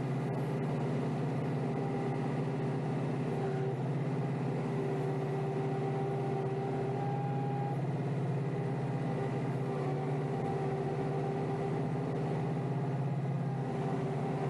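Kioti DK5320SE tractor's diesel engine running steadily with an even, unchanging hum.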